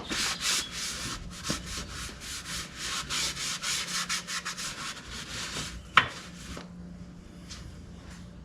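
Quick repeated rubbing strokes, a cloth being scrubbed back and forth over a surface to wipe up spilled motor oil, stopping after about six seconds. Around the same time there is a single sharp knock.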